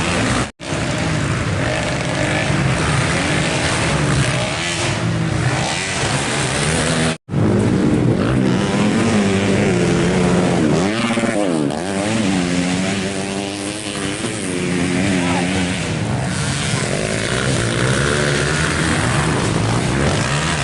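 Racing engines running on a circuit, revving with the pitch rising and falling as vehicles accelerate and pass. The sound cuts out abruptly for a moment twice, about half a second in and about seven seconds in.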